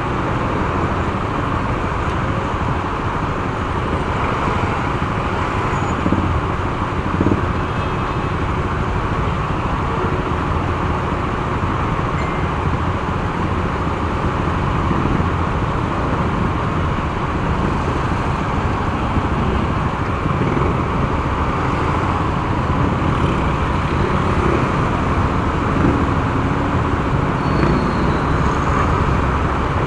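Steady road noise from a motorcycle on the move: engine, tyres and wind, with traffic around it.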